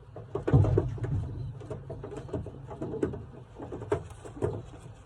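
Racing pigeons cooing in the loft, with scuffling and short clicks and flutters as a young pigeon is held in the hand, the loudest about half a second in.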